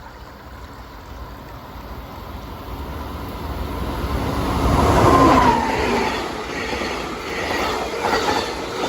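Amtrak Wolverine passenger train approaching along the track, its rumble building steadily to its loudest about five seconds in as it passes close by, then wheels running on the rails.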